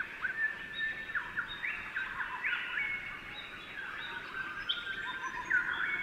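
Several birds singing and calling at once, a dense chorus of overlapping chirps and whistled notes that slide up and down in pitch.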